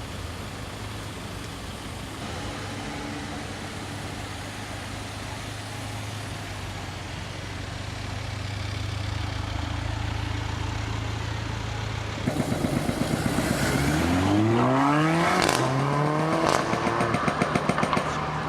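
Mercedes-AMG A45's 2.0-litre turbocharged four-cylinder running with a steady low note, then about twelve seconds in it accelerates hard, louder, its pitch climbing twice as it goes up through the gears. Near the end comes a run of rapid pulsing exhaust crackles.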